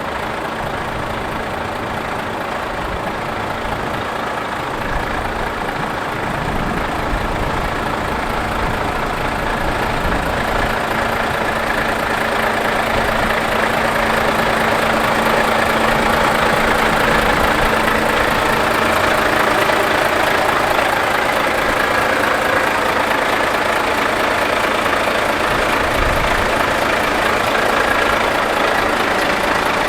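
Volvo FH540 truck's 13-litre six-cylinder diesel engine idling steadily, growing a little louder over the first half.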